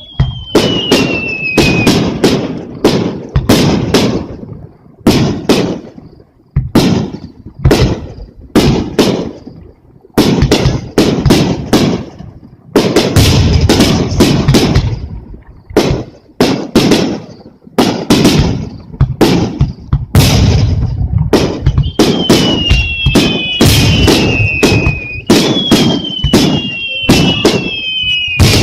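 Fireworks display: aerial shells bursting in quick succession, each a sharp bang trailing into a rolling rumble. Falling whistles from whistling shells sound at the very start and again through the last several seconds.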